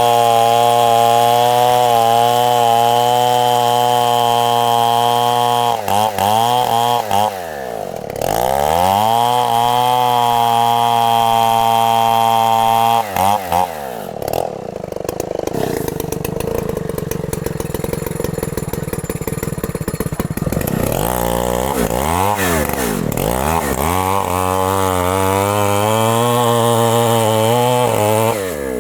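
Two-stroke chainsaw running hard at high revs while cutting a very large tree trunk. Several times its pitch drops and climbs back as the throttle is eased and opened again. In the middle it runs for several seconds at lower, rougher revs.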